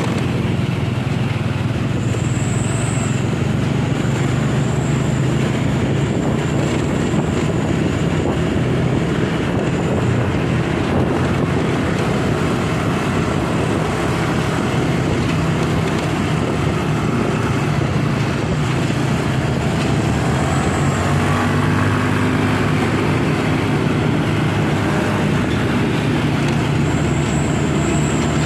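Steady road-vehicle noise: a truck's engine drone with road noise, unbroken throughout, and a thin high whine that comes and goes twice.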